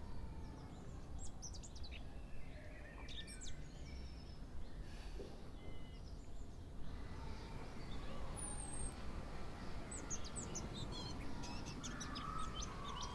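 Small birds chirping: scattered short, high calls, thicker in the second half, over a steady low background rumble.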